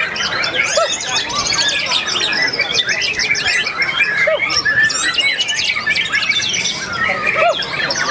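Caged white-rumped shamas singing at once, a dense, unbroken stream of rapid overlapping chirps, trills and mimicked calls.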